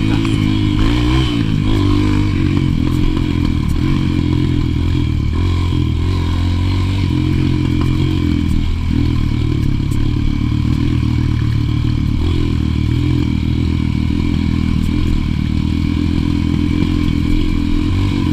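Honda single-cylinder four-stroke trail bike engine running while riding along, holding a fairly steady pace with small rises and falls in pitch as the throttle is worked, and a brief dip about nine seconds in.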